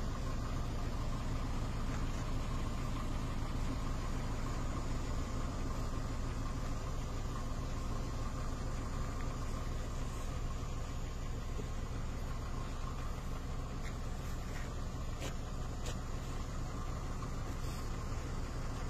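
Car engine idling steadily, with a few faint clicks near the end.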